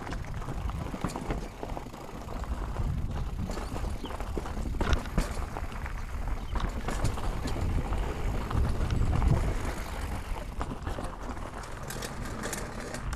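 Mountain bike riding over a rough, rocky trail: irregular knocks and rattles from the bike and tyres on rock and dirt, over a low rumble of wind on the microphone.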